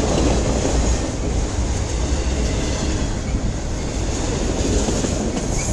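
Freight cars of a long mixed-freight train rolling slowly past on the rails: a steady rumble and rattle of wheels and cars.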